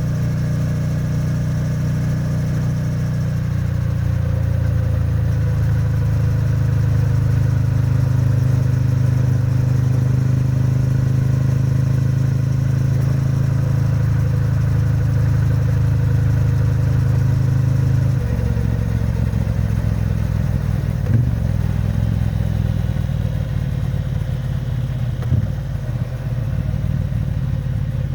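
Triumph Bonneville T100's 900 cc parallel-twin engine and exhaust running at a steady cruising throttle. About two-thirds of the way through the throttle closes suddenly, and it runs on lower and rougher as the bike slows. Two short knocks come near the end.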